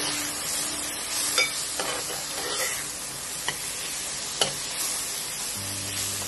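Onions and ground spices sizzling in hot oil in a pan, with a splash of water just added to keep the masala from burning. A metal spoon stirs and scrapes through it, clacking against the pan a few times.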